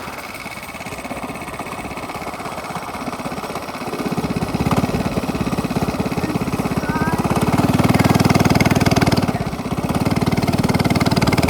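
Minibike's small engine with a straight-pipe exhaust running under throttle, a rapid steady train of exhaust pulses. It gets louder about a third of the way in and louder still past the middle, dips briefly, then picks up again near the end.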